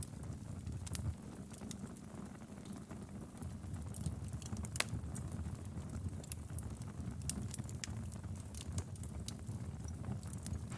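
Wood fire burning in a fireplace: a steady low rumble of flames with scattered sharp crackles and pops, one louder pop near the middle.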